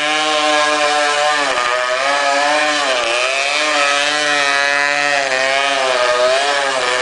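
Motorcycle engine running hard, its pitch rising and dropping several times as the throttle is opened and closed.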